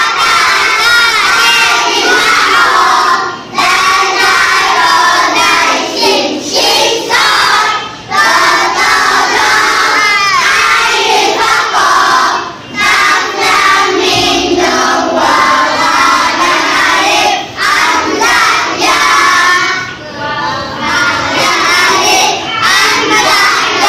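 A class of young children singing together loudly in unison, in phrases broken by short pauses every few seconds.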